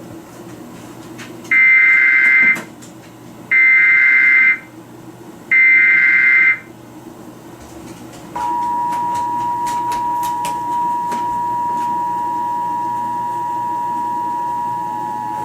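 Emergency Alert System signal: three one-second bursts of the SAME header's warbling digital data tones, then, about eight seconds in, the steady two-tone attention signal (853 Hz and 960 Hz together) announcing that an alert message follows.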